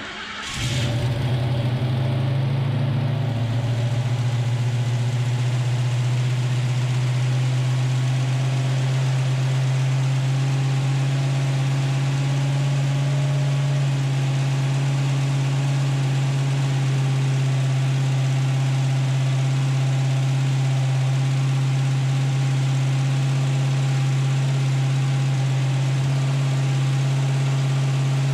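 Freshly rebuilt Ford 289 small-block V8 with a flat-tappet camshaft starting for the first time: it catches almost at once and within about a second settles into a loud, steady, even run, held at raised engine speed for camshaft break-in.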